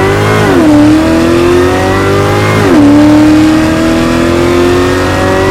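Supercharged LSA V8 of a 650-horsepower 2013 Cadillac CTS-V under hard acceleration. The revs climb, drop sharply at an upshift just after the start and again about two and a half seconds later, then climb once more.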